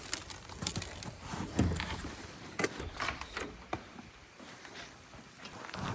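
Irregular crunching and knocking: footsteps on sleet-crusted snow while a heavy, overfilled tote of water is carried, with a low thump about a second and a half in. It grows quieter in the second half.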